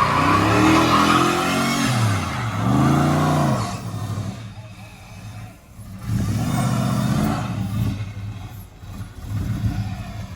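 Carbureted 6.0 LS V8 with headers in a Chevrolet Monte Carlo SS, revved hard twice in quick succession, the pitch rising and falling each time. It then drops back and is revved again more lightly about six seconds in and once more near the end.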